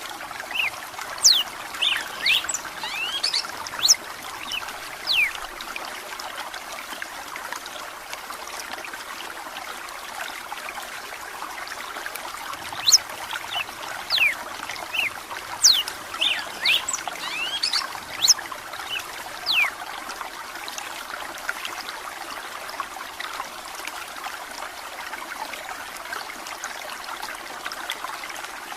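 Red-cowled cardinal singing in two bouts of quick, sharp whistled notes, over steady running water trickling. After about two thirds of the way in, only the water is heard.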